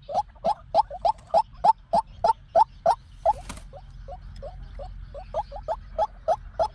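White-breasted waterhen calling: a long run of short, repeated notes, about three a second, loud at first. After a brief break about halfway through with a short rustle, the notes go on more quietly.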